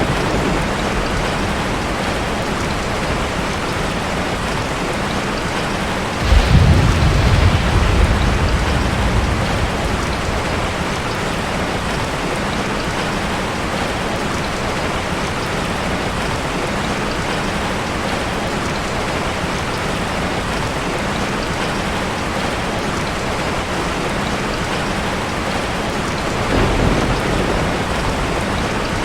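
Steady heavy rain falling, with a low roll of thunder about six seconds in that fades over a few seconds, and a fainter rumble near the end.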